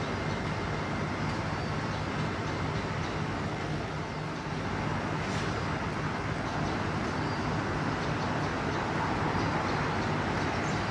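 Steady background traffic noise, an even rumble and hiss of road traffic with a faint low hum.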